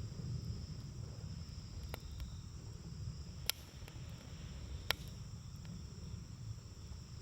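Wood campfire burning with a low rush and three sharp pops, about a second and a half apart, over a steady high chirring of crickets.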